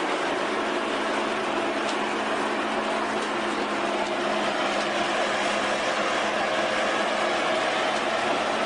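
A steady engine drone of running machinery, even in level, with a faint low hum under a broad hiss.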